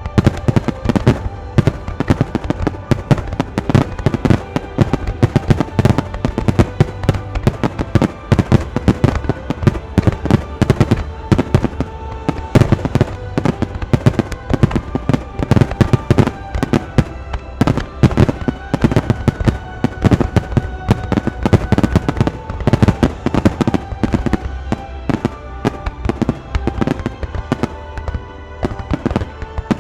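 Fireworks bursting in a rapid, dense barrage, many sharp bangs a second without a break, with music playing along.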